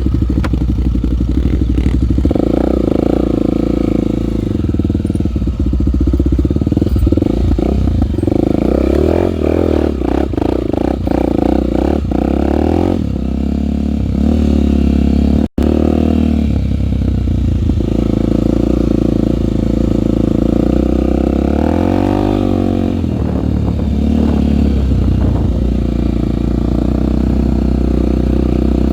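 Single-cylinder four-stroke Honda trail bike engine running under way, its revs rising and falling with the throttle. The sound cuts out for a moment about halfway through.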